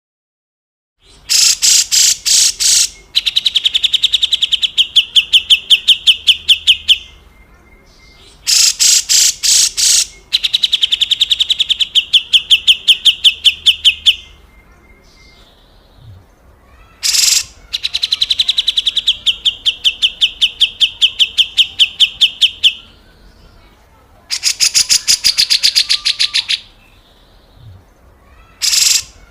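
Grey-cheeked bulbul (cucak jenggot) giving its harsh, rattling 'besetan kasar' call. Each bout opens with a few sharp notes and runs on into a long, fast series of rasping notes. Five bouts come in turn, with short pauses between them.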